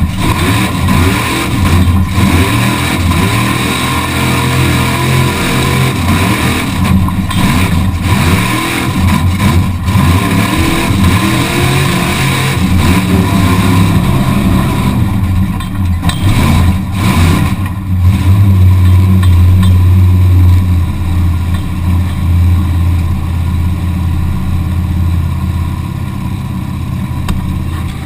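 Truck engine running and revving, heard from inside the cab, its pitch stepping up and down as the speed changes, loudest about two-thirds of the way through.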